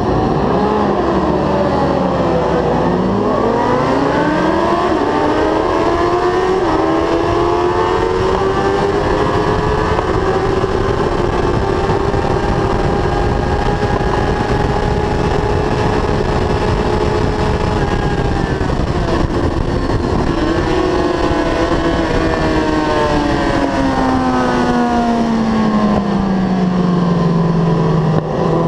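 A 1000 cc superbike engine heard from a camera on the bike. It pulls hard off the race start, its pitch dipping and climbing again at quick upshifts in the first few seconds. It then holds high revs down the straight, and its pitch falls steadily near the end as it drops through the gears for a corner.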